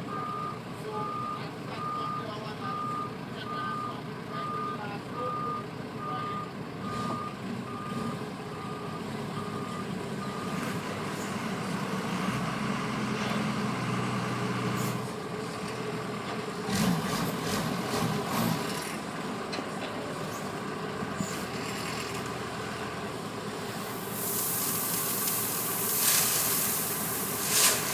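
A heavy vehicle's reversing alarm beeping steadily, about one and a half beeps a second, over diesel engines running; the beeping stops about ten seconds in. A few clunks follow in the middle, and a loud hiss rises near the end.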